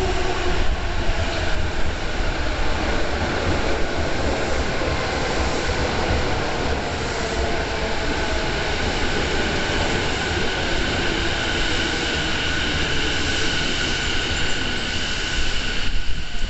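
A Saikyo Line electric commuter train running at a station platform: a steady rumble with a thin, steady high whine that stands out in the second half. Gusting wind buffets the microphone underneath, as a strong, flickering low rumble.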